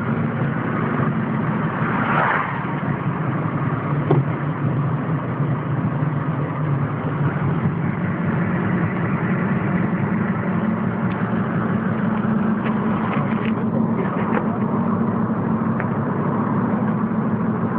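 Vehicle engine and road noise heard from inside the cabin while driving: a steady low drone.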